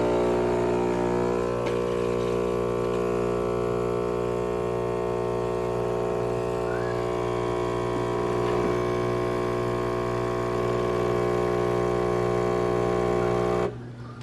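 Philips 3200 LatteGo super-automatic espresso machine running its pump, a steady buzzing hum that stops suddenly near the end.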